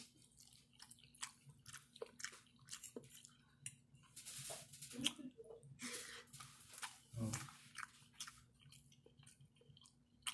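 A person chewing a mouthful of spaghetti with meat sauce close to the microphone: quiet wet mouth clicks and smacks, thickest between about four and seven and a half seconds in.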